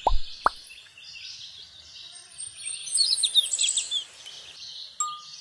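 Small songbirds chirping and trilling in high, quick notes, loudest about halfway through. There are three quick sharp notes at the very start and a short click near the end.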